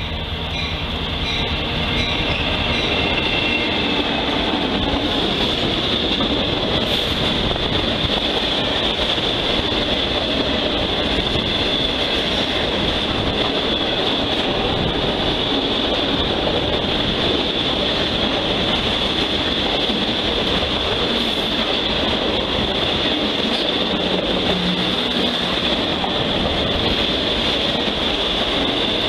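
CSX freight train passing close by, first growing louder over a few seconds as the locomotive nears, then a steady rumble and clatter of autorack cars rolling past. A steady high-pitched wheel squeal from the curved track runs under it.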